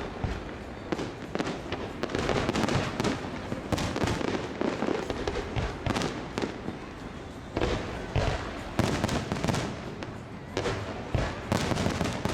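Aerial fireworks going off in a dense, continuous run of bangs and crackling bursts, with several louder reports one after another.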